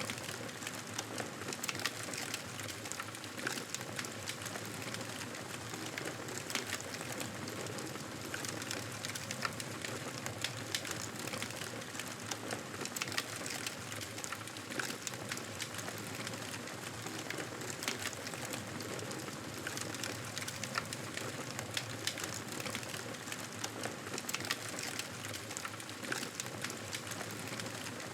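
Wood fire in a fireplace crackling: a steady hiss dotted with many small pops and ticks.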